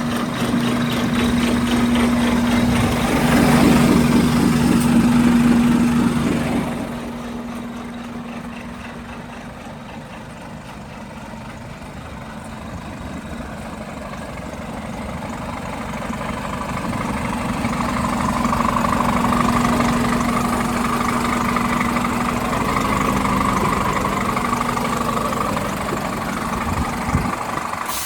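Scania P500 truck's diesel engine idling steadily. It is louder for the first six seconds, quieter through the middle, and swells again in the later part.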